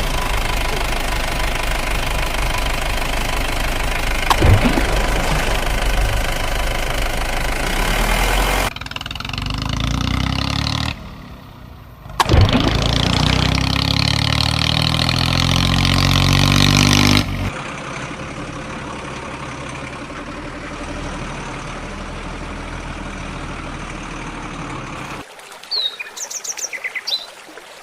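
Small engine running in a series of short clips cut together, its pitch rising in one clip about halfway through; near the end a few short high squeaks.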